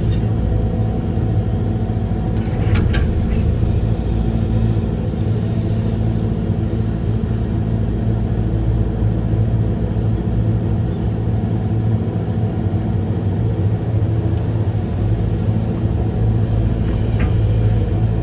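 Amphibious excavator's diesel engine running steadily under load, with a couple of brief clanks about three seconds in and again near the end.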